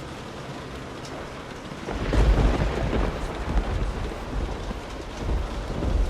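Steady rain with a roll of thunder that breaks in sharply about two seconds in and rumbles on, swelling again near the end.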